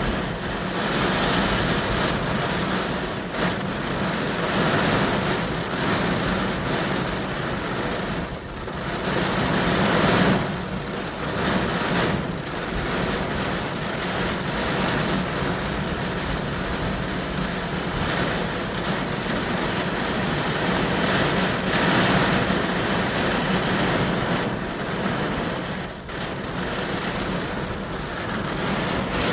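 Heavy rain pounding on a car, heard from inside the cabin, swelling and easing every few seconds over a steady low hum from the vehicle.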